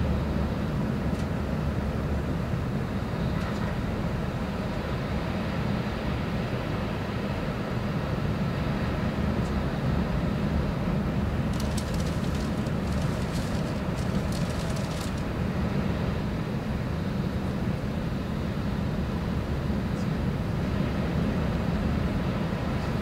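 E6 series shinkansen running at speed, heard inside the passenger cabin: a steady low rumble with an even hiss over it. A cluster of short, sharp clicks comes about halfway through.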